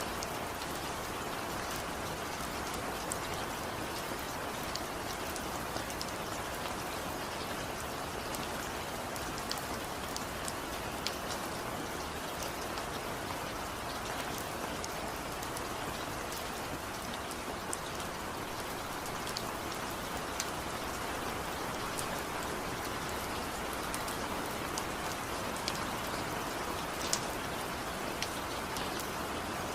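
Steady rain falling, a dense even patter with scattered sharper drop clicks.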